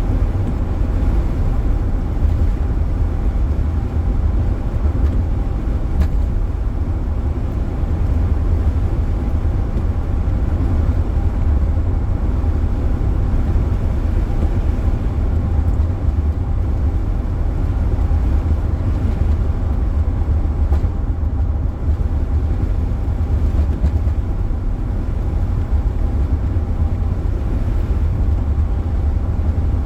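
Steady low road rumble of a moving car, heard from inside: tyre and engine noise with no break or change.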